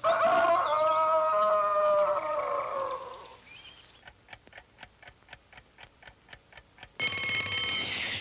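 A held orchestral chord fades out, then a cartoon clock ticks steadily at about four ticks a second, and about seven seconds in an alarm clock bell starts ringing loudly.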